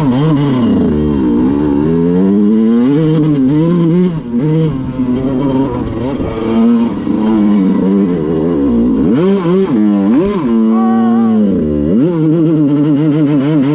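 Two-stroke dirt bike engine revving, the pitch rising and falling over and over as the throttle is worked, with several quick sharp revs late on.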